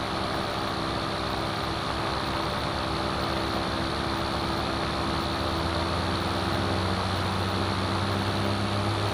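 Light aircraft's piston engine idling with its propeller turning, a steady hum heard from inside the cabin, growing slightly louder in the second half.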